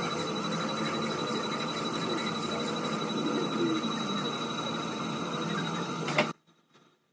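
Steady mechanical running noise from workshop machinery, with a thin high steady whine over a low rumble, cutting off abruptly about six seconds in.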